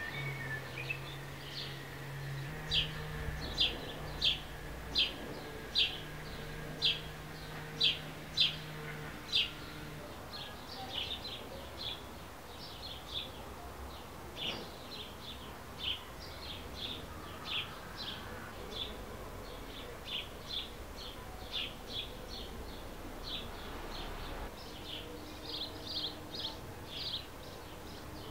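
A small bird chirping over and over in short, high chirps, evenly spaced for the first ten seconds and then more irregular. Under it for the first ten seconds a bumblebee's low, steady buzz, shifting pitch now and then.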